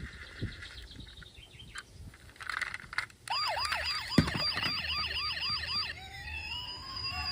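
Light clicks and rattles of a plastic toy, then about three seconds in an electronic toy siren starts a fast yelp of about three to four sweeps a second. Near the end it changes to a slower wail.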